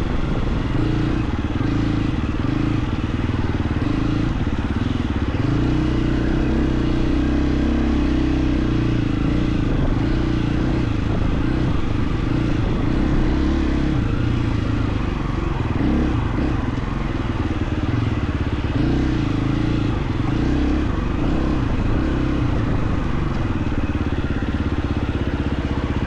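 KTM 350 XC-F dirt bike's single-cylinder four-stroke engine running on a trail ride, its pitch rising and falling with throttle changes.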